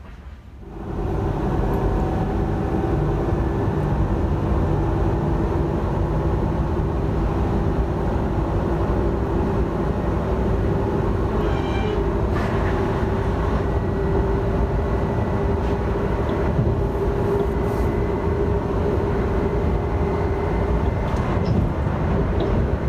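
Alstom Régiolis regional train running, heard from on board: a steady rumble of wheels and running gear with a steady hum. It starts abruptly about a second in.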